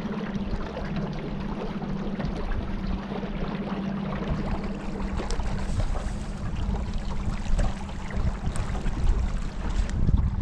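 Small boat under way on the river: a steady low motor hum with water rushing along the hull and wind on the microphone.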